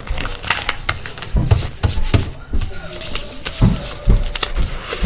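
A sheet of paper being folded and creased by hand, crinkling and rustling close up, with a few dull bumps.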